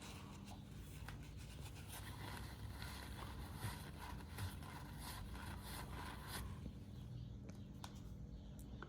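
Faint gritty scraping in a run of short strokes, with small clicks: a valve being lapped against its seat in a cast-iron cylinder head to show the seat's contact line.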